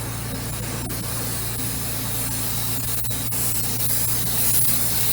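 Compressed air hissing steadily from an air-powered dryer-vent cleaning tool as it is worked back out of the vent line, growing stronger near the end, over a steady low hum.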